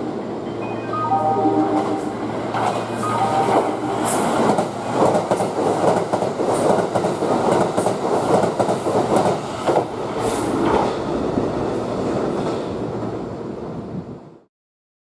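Kintetsu 80000 series Hinotori limited express passing through the station at speed: a rush of air and wheels clattering over rail joints. For the first few seconds a repeating platform warning chime plays over it. The sound cuts off suddenly near the end.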